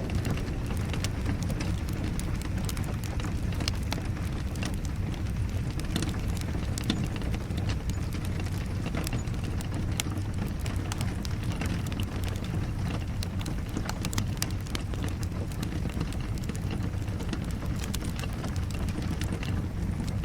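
Wood fire crackling in a fireplace, irregular sharp pops and snaps over a steady low rush, mixed with falling rain.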